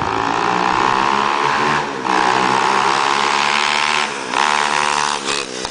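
Mini bike powered by a Honda ATC200X single-cylinder four-stroke engine, running under throttle with its note climbing, broken by two brief dips about two and four seconds in.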